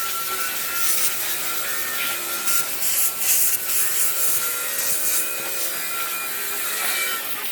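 Wood being sanded: a continuous scratchy rubbing.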